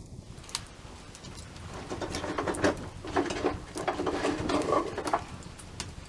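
Campfire crackling with scattered sharp pops. For about three seconds in the middle the crackling grows denser and louder, with a rustling body under it.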